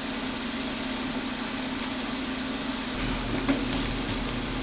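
Mushrooms sizzling as they sauté in a pan, cooking off their water, over a steady low hum. A faint clink about three and a half seconds in.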